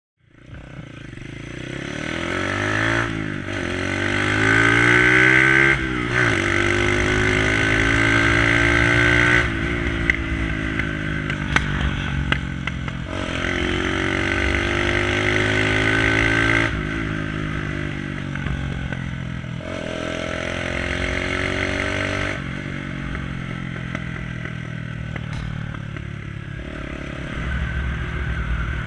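Lexmoto ZSX 125's single-cylinder four-stroke engine through a straight-pipe exhaust, revving up and dropping back several times as it is ridden. A few sharp pops come from the exhaust along the way.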